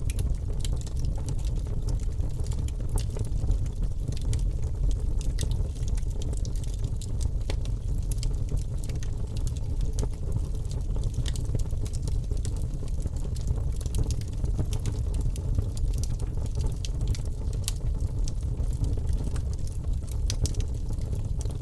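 Wood fire in a fireplace crackling, with many small irregular pops and snaps over a low steady rumble of the flames.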